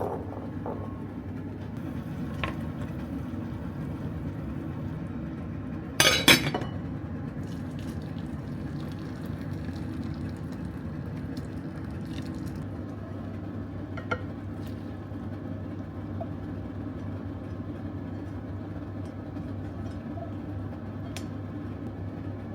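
A steady low hum of a running motor, with dishes clinking loudly about six seconds in and lightly a couple more times.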